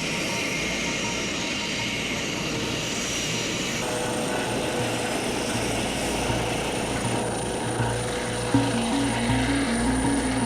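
Airbus EC135 T3 helicopter turbines running with a steady hum and a thin high whine. Background music with a pulsing beat and stepping notes comes in over it about halfway through.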